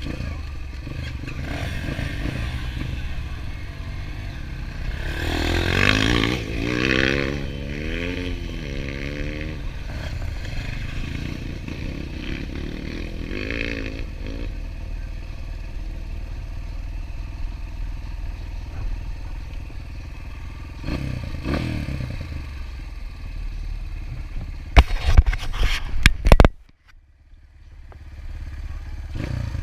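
Enduro dirt bike engine running, its revs swinging up and down several times about a fifth of the way in and again briefly a few seconds later. Near the end come a cluster of loud knocks and clatter, then the sound cuts out for about a second before the engine comes back.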